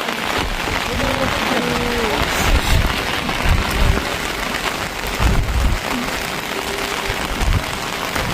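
Steady rain falling, an even hiss with no break, with faint pitched sounds underneath.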